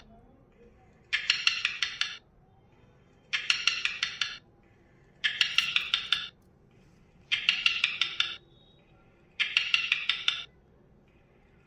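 Parrot calling five times, about every two seconds: each call is a harsh burst of rapid clicks about a second long.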